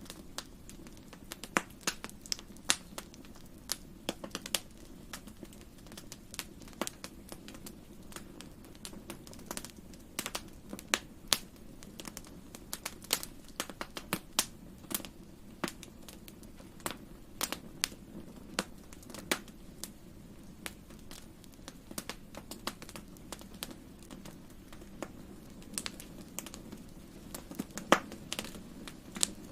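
Fireplace fire crackling: irregular sharp pops and snaps over a steady low rumble of the burning, with one louder pop near the end.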